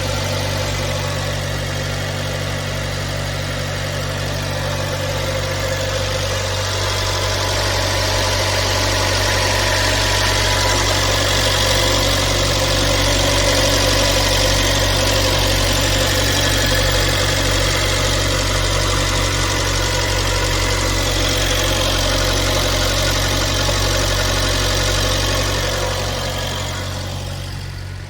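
Kia Sportage 3's G4KD 2.0-litre four-cylinder petrol engine idling steadily on a cold start, fading somewhat near the end. The engine was rebuilt about 15,000 km ago, and the owner thinks the cold idle sounds normal.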